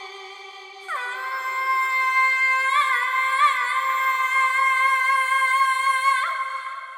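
Cinematic music with a Middle Eastern-style female vocal holding a long, high wordless note over a sustained ambient pad. The voice slides down into the note about a second in, adds a few quick ornamental turns in the middle, and lifts off near the end as the sound fades.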